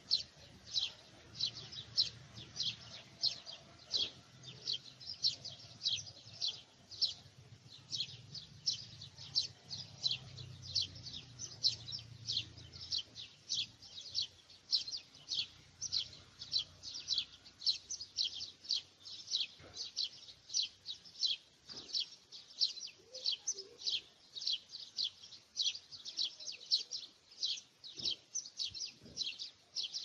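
A bird chirping over and over, short high chirps that drop in pitch, evenly spaced at about two or three a second.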